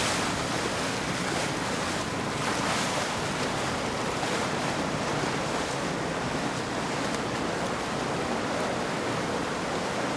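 Steady rushing noise of wind and water, with no distinct events.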